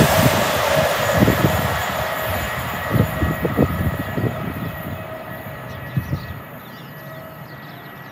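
A passenger train that has just run through the station at speed goes away into the distance, its rush and hiss fading steadily. A few irregular low thuds come in the first half.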